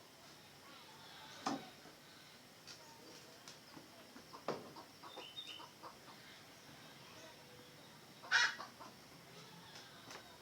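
Red junglefowl clucking and calling now and then, with the loudest call about eight seconds in.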